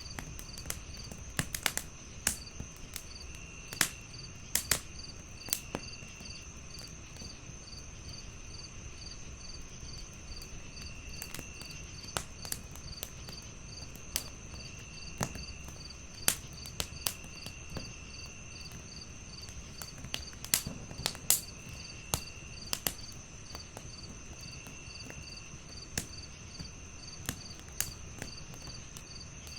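Crickets chirping in a steady, regular rhythm with a continuous high insect tone and short trills that come and go. Over them a wood fire crackles, with irregular sharp pops that are the loudest sounds, and a low, steady rumble beneath.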